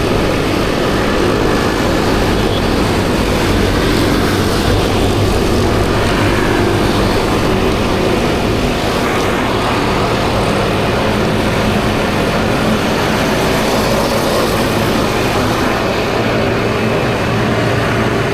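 Riding noise on a 50cc scooter in traffic: steady wind rush with the small engine's drone underneath.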